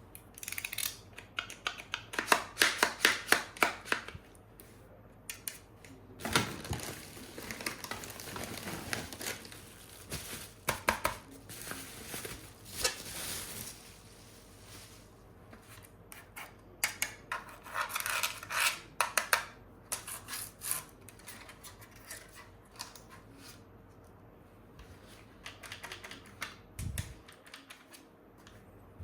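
Plastic toy weapons and their packaging being handled: bursts of rapid clicking and clattering, with a longer stretch of rustling in the first half.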